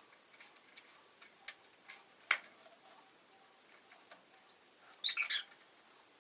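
A rosy-faced lovebird making small scattered ticks and clicks, with one sharper click a little over two seconds in, then a quick burst of three or four high chirps about five seconds in.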